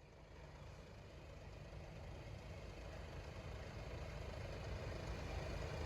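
A vehicle approaching: engine rumble and running noise growing steadily louder.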